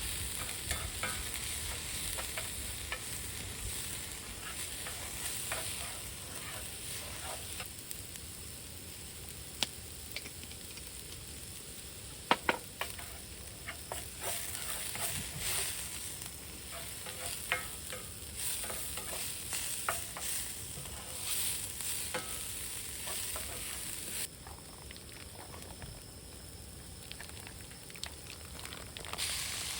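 Food sizzling as it cooks, a steady hiss with scattered clicks and pops; the sizzle quietens for a few seconds near the end.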